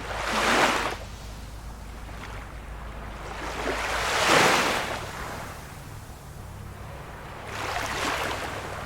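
Small waves washing in on the shore, three gentle swells of surf that rise and fade, the one about halfway through the loudest.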